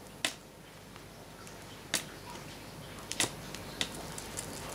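Electrical arcing as a capacitor bank discharges into a shorted circuit board: a few sharp, irregular snaps, the clearest about a quarter second in and about two seconds in, with fainter ticks between.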